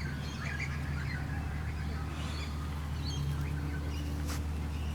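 Birds chirping faintly in short scattered calls over a steady low hum.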